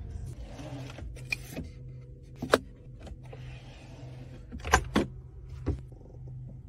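Mercedes-Maybach S 580's twin-turbo V8 idling, heard inside the cabin as a low steady hum just after a push-button start. Several sharp clicks and knocks from the interior fittings being handled sound over it, the loudest about two and a half seconds in and a pair just before five seconds.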